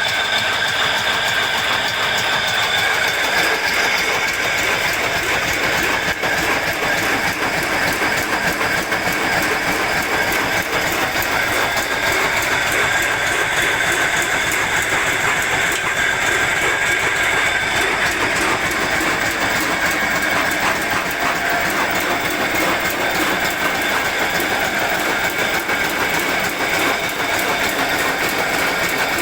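Old Kubota tractor engine running steadily under way, a fast, even mechanical clatter with no let-up.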